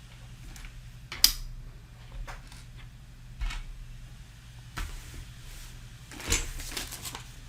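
Plastic Mega Construx building bricks clicking and knocking as pieces are handled and pressed together: a sharp click about a second in, a few lighter knocks, and a short clatter of rummaged parts near the end.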